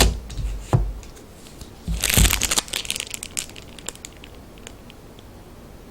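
Plastic packaging crinkling as small toys are handled: a few sharp clicks near the start, a brief burst of crinkling about two seconds in, then scattered light ticks.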